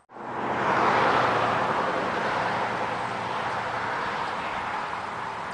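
A road vehicle passing on the highway: tyre and engine noise swells within about a second, then slowly fades.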